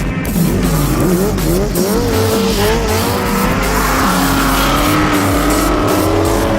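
A drifting vehicle's engine revving, its pitch swinging up and down and then climbing slowly, with tyres squealing as they slide.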